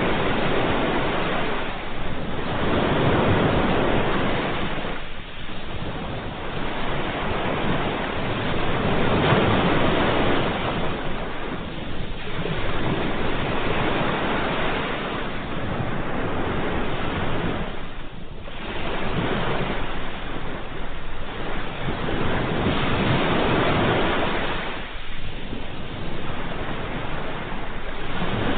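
Ocean waves breaking and washing on a shore, a continuous surf wash that swells and eases every few seconds.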